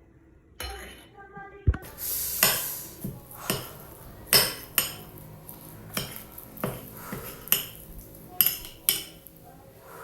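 Metal utensils clinking and knocking against dishes, about a dozen irregular strikes with a short scrape near the start.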